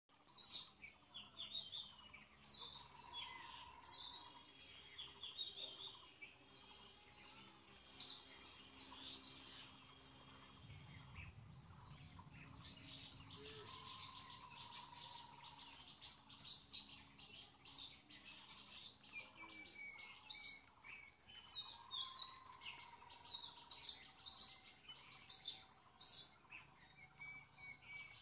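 Several birds chirping and calling, with many short quick chirps and a few longer whistled notes, over a faint steady high hiss.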